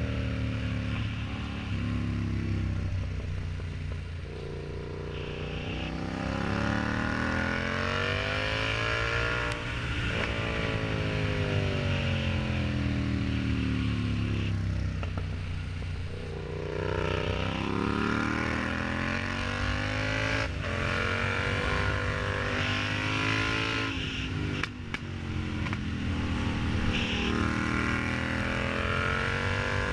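Yamaha MT-07's parallel-twin engine through an aftermarket exhaust, ridden on the road. The engine note climbs as it accelerates and falls back as the throttle closes, several times over.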